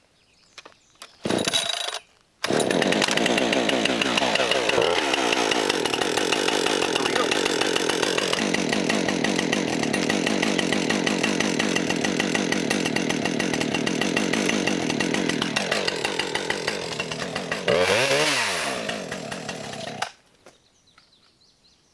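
Husqvarna 550XP chainsaw's 50cc two-stroke engine being started with the choke off: it fires briefly, then catches about two seconds in and runs loudly with its pitch shifting. Near the end the engine speed dips, revs up sharply, then cuts out suddenly as the saw stalls, which is not supposed to happen on this new saw.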